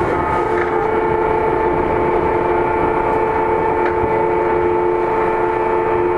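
Seibu 9000-series electric commuter train running, heard from inside the car: a steady rumble of wheels on rail with several whining tones holding one pitch.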